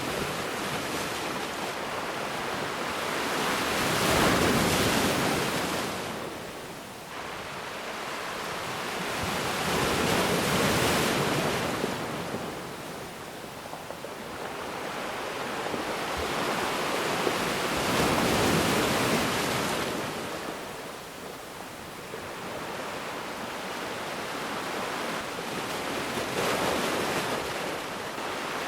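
Ocean waves breaking on a beach, a steady wash of surf that swells and ebbs about every seven or eight seconds.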